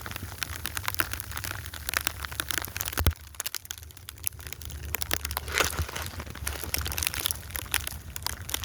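Snow crunching and crackling close to the microphone in an irregular run of small crackles, with one sharper knock about three seconds in, over a low steady rumble.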